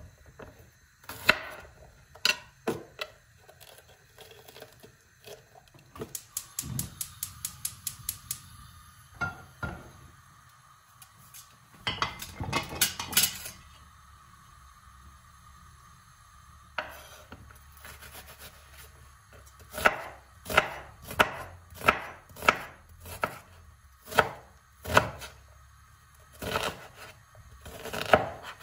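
Knife chopping food on a cutting board: a fast run of chops a few seconds in, a dense flurry around the middle, then slower separate chops through the second half.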